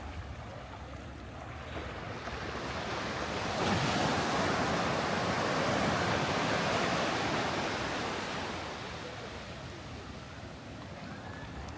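Sea surf: a wave breaks and washes up the beach, swelling to its loudest about four seconds in and fading away over the next several seconds. Wind rumbles on the microphone underneath.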